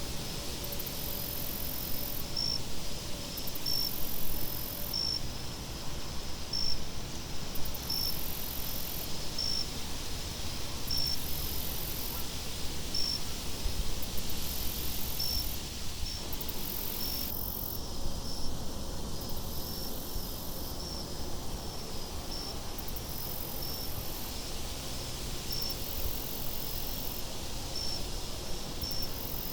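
Crickets chirping over a steady rushing wind, with short high chirps every second or so and longer, higher trills in between.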